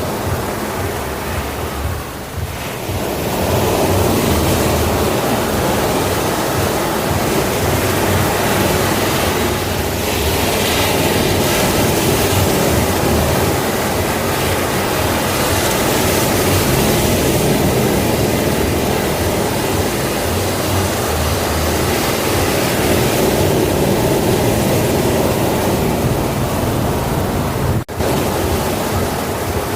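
Sea waves washing onto a shore in a continuous surging roar of surf, with a momentary break in the sound about two seconds before the end.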